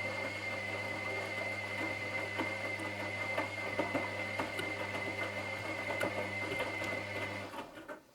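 Washing machine running: a steady low hum and a high whine over light rattling and clicking, which stop suddenly near the end.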